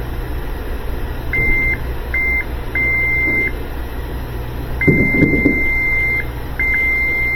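Electronic beeps at one steady high pitch, about six of them, some short and some over a second long, at irregular intervals over a low steady hum, with a few soft knocks about five seconds in.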